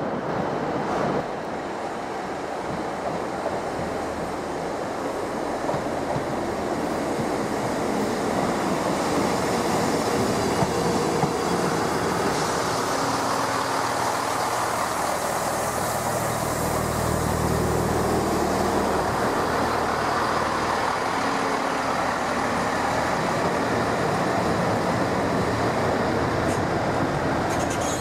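A train running at a station: a steady rumble of wheels and machinery that swells slightly partway through, with a low hum strongest around the middle.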